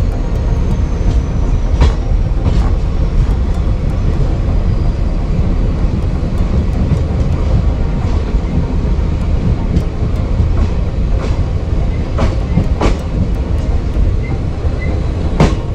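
Indian Railways express train with ICF coaches running along the track: a steady heavy rumble, with irregular clicks and knocks from the wheels over the rail joints.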